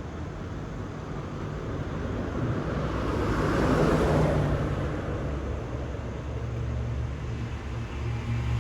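VW Golf GTI Clubsport's turbocharged four-cylinder engine and exhaust running with a steady low hum. A rushing noise swells and fades over it, loudest about four seconds in.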